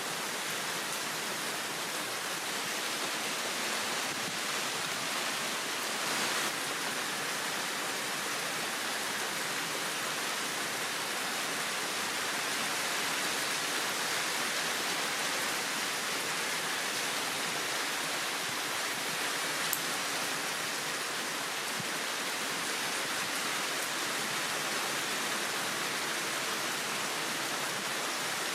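Heavy rain pouring down steadily in a downpour. One short sharp tick about twenty seconds in.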